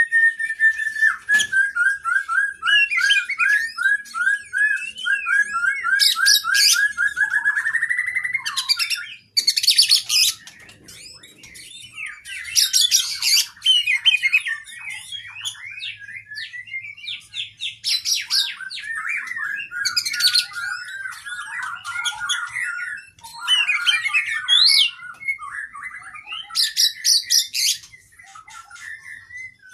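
Oriental magpie-robin (kacer) singing a long, varied song. It opens with a fast run of repeated notes for about eight seconds, then moves into changing phrases broken by short, very high, shrill bursts.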